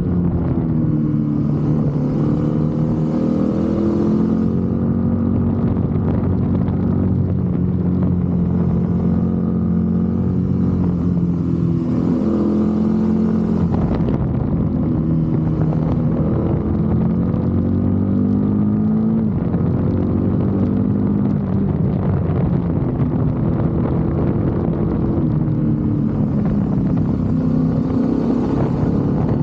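BMW F850 GS motorcycle's parallel-twin engine running under way, its pitch climbing and dropping several times with throttle and gear changes.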